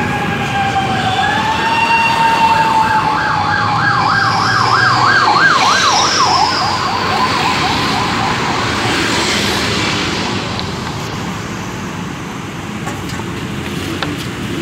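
Emergency vehicle siren going by: a steady tone that breaks into a fast yelp, rising and falling about twice a second, then fades out, over steady background noise.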